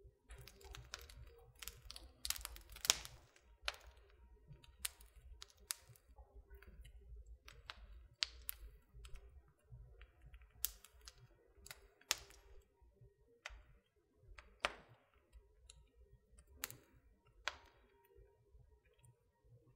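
Wood fire crackling in a fireplace: irregular sharp pops and snaps, busiest and loudest about two to three seconds in, over a faint low rumble.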